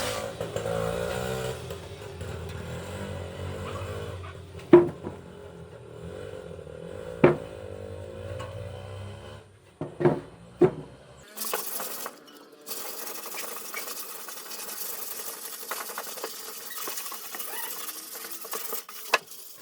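A motor runs steadily with a few sharp clicks or knocks. It stops about eleven seconds in and a steady hiss of air or spray takes over.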